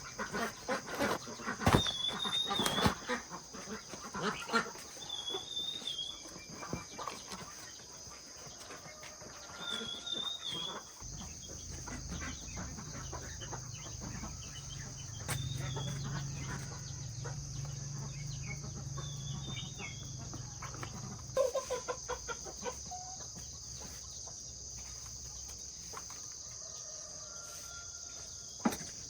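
Chickens calling, with short high chirps every couple of seconds over a steady high insect drone. A low hum comes in for several seconds in the middle.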